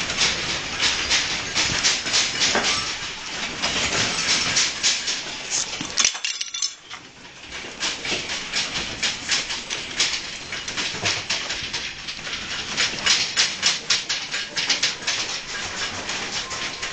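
Household objects rattling and clattering in a house shaken by the magnitude 8.8 earthquake: a dense, continuous run of knocks and rattles, easing briefly about six seconds in before picking up again.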